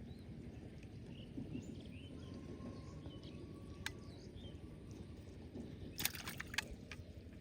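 Outdoor ambience: a steady low rumble with faint, short bird chirps. A sharp click about four seconds in and a quick run of clicks about six seconds in are the loudest sounds.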